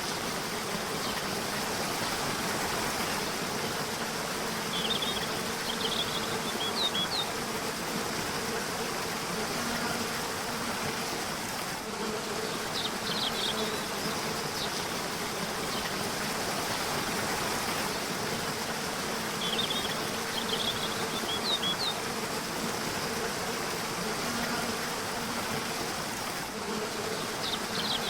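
Rushing river water running steadily, with short clusters of high bird chirps every several seconds and a faint low buzz that comes and goes.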